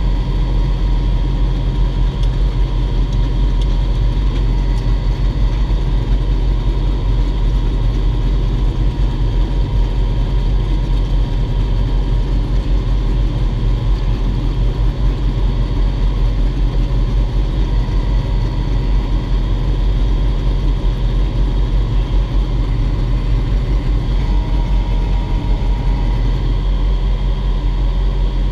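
Lamborghini Huracán's V10 engine idling steadily while the car stands still, heard from inside its stripped, roll-caged cabin.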